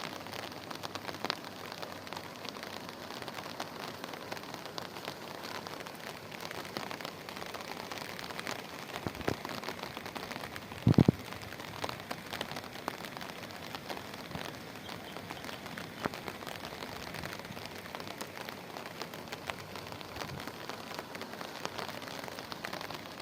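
Heavy rain falling steadily, a dense patter of drops on surfaces. About halfway through comes a short, loud low thump, with a smaller one just before it.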